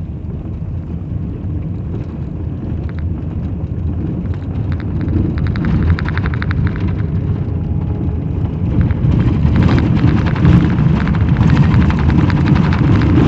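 Car driving on a washboard dirt road, heard from inside the cabin: a steady low rumble of tyres and engine with fast rattling from the corrugations, growing louder in the second half.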